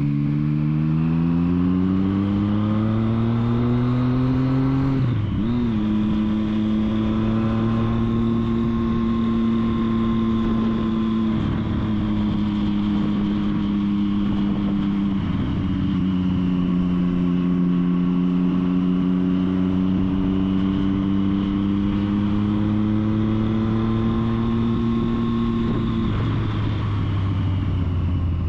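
Triumph Street Triple's three-cylinder engine under way, rising in pitch as it accelerates, with a gear change about five seconds in. It then holds a fairly steady tone with small shifts in pitch, and the revs drop near the end.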